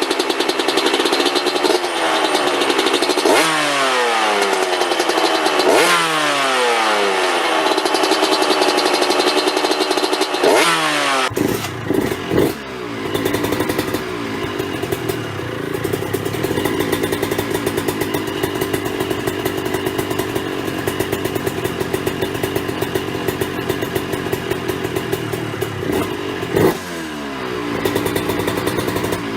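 Suzuki RM 125 single-cylinder two-stroke engine revved through an aftermarket exhaust: repeated throttle blips, the pitch sweeping up and falling back every two seconds or so. After a cut, another RM 125 runs near idle and is blipped twice near the end.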